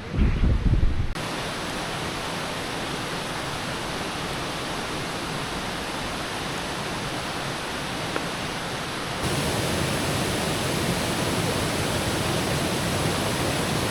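Steady rushing of water. Low rumbling buffets in the first second give way to an even rush, which steps up louder about nine seconds in.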